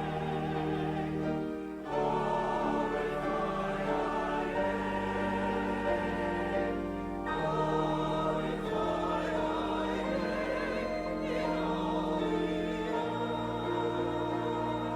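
Choir singing a hymn in sustained chords with instrumental accompaniment, the bass note shifting every second or two.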